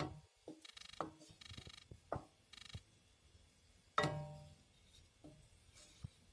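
Small household objects being handled: scattered clicks, a few short rasping rattles, and a sharper knock about four seconds in that rings briefly.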